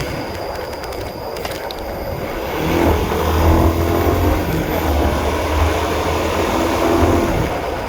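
Single-cylinder Honda CB150R motorcycle engine running while riding, with its low rumble growing louder about three seconds in as the throttle opens.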